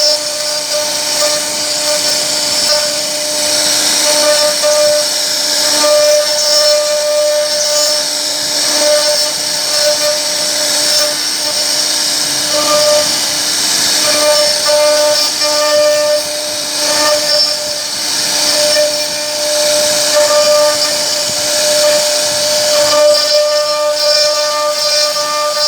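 CNC router spindle cutting a pocket into wood: a steady whine with a bright cutting hiss, its tone fading and returning as the load on the bit changes.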